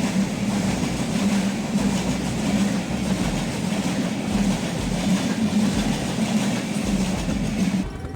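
Train running along the track: a steady rumble with a pulsing low hum, cutting off suddenly near the end.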